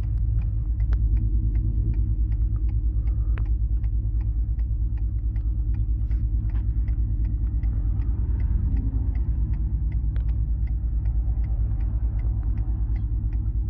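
Ford F-150's 5.0 Coyote V8 running steadily on catless 1-7/8 in long-tube headers with an off-road pipe, a loud, deep, even exhaust rumble with no revving. A light, regular ticking comes about three times a second over the top.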